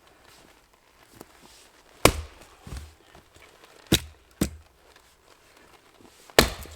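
Four sharp knocks, irregularly spaced, each with a dull thud beneath it; the first and last are the loudest, and a fainter thud follows the first.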